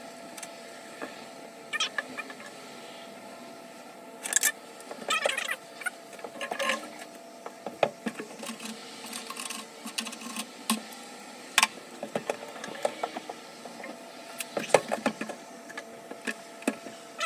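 Hand-tool work on plumbing: irregular clicks and knocks of metal parts, with a few short squeaky scraping bursts, over a faint steady hum.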